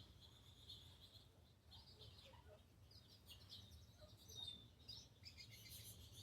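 Faint chirping and twittering of small songbirds: many short, high-pitched chirps scattered through, none of them loud.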